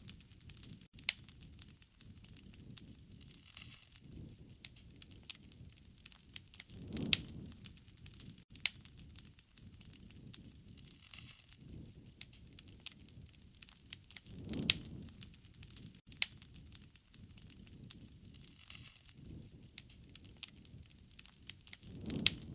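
Wood fire crackling, with frequent sharp pops and snaps. A low rushing swell rises and falls about every seven to eight seconds, near the start, the middle and the end.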